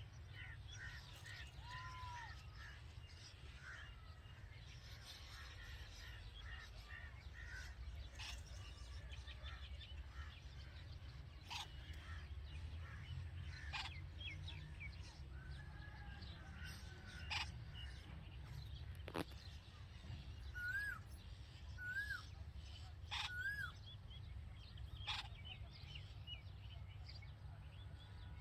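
Red-vented bulbuls chirping and calling in short notes, with a few sharper, louder calls and three quick upward-hooked notes in the last third, over a steady low rumble.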